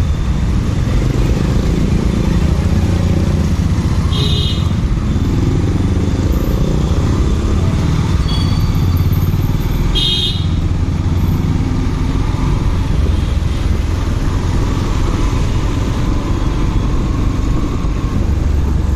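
Motorcycle riding along a road: a steady engine and wind-and-road noise, with two short high beeps about four and ten seconds in.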